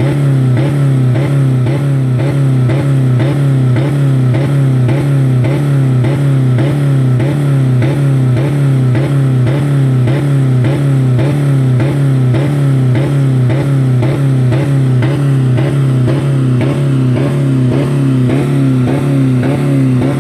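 2000 Dodge Neon's 2.0-litre four-cylinder engine held at about 4000 rpm at its rev limit, running steadily with a rhythmic pulsing about two to three times a second. The engine has no oil or coolant left in it.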